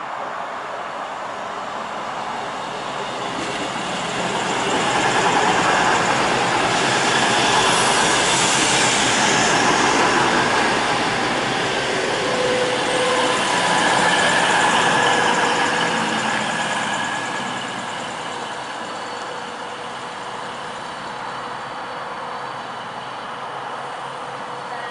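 Virgin Voyager diesel multiple unit passing through the station at speed without stopping: its engine and wheel noise swells over a few seconds, holds loud for about ten seconds with a steady whine, then fades as it goes by.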